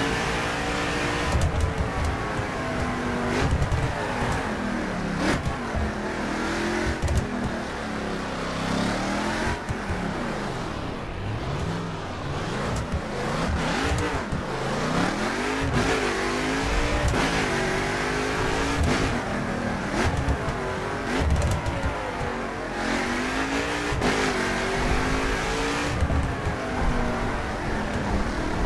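Mercedes-Benz C63 AMG engine revving and accelerating hard, its pitch climbing and dropping again and again through gear changes, with occasional sharp cracks.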